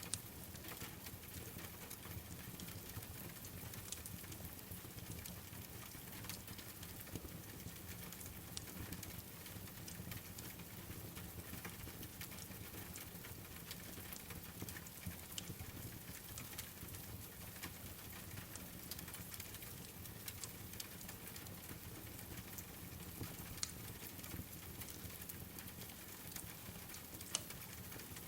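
Steady rain hiss mixed with a crackling wood fire, with scattered sharp pops and ticks throughout, a few louder ones standing out.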